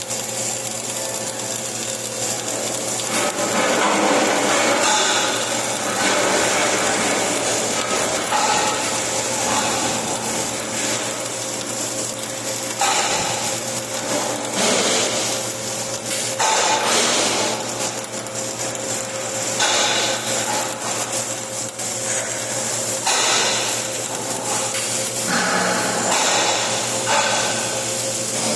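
Flux-cored arc welding: the arc crackles and sizzles steadily over a low electrical hum, its texture shifting every few seconds.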